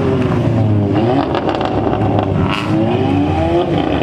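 Car engine revving, its pitch rising and falling several times, with a short hiss about two and a half seconds in.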